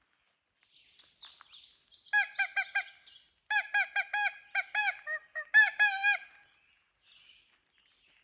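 Woodpecker locator call imitating a pileated woodpecker. A brief scratchy lead-in gives way to three quick runs of short, evenly pitched notes, about six a second.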